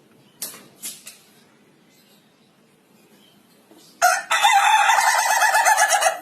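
A rooster crowing once, a loud call of about two seconds that starts about four seconds in. Two short, sharp sounds come before it, about half a second and a second in.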